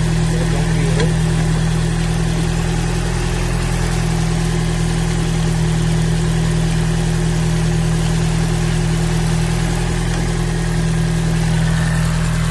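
2012 Scion tC's 2.5-litre four-cylinder engine idling steadily.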